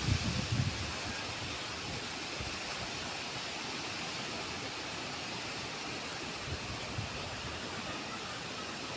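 Heavy rain and strong wind: a steady hiss, with low gusts buffeting the microphone in the first second and again briefly about two thirds of the way through.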